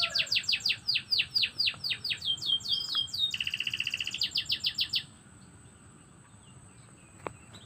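Domestic canary singing: a quick series of rapid downward-sweeping whistled notes, a buzzing trill in the middle, then more quick sweeps, stopping about five seconds in. A single faint click comes near the end.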